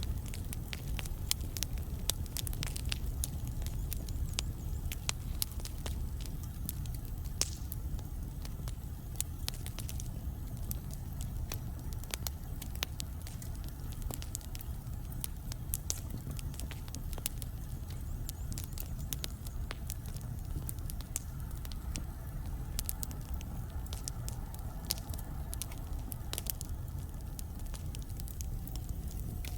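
Wood logs burning in a fireplace: a steady low rumble with frequent, irregular sharp crackles and pops. A faint falling whistle is heard near the end.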